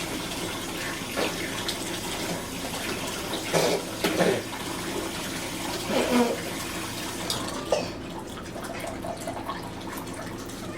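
Water running steadily from a tap, with a few short louder sounds over it, then cutting off about eight seconds in.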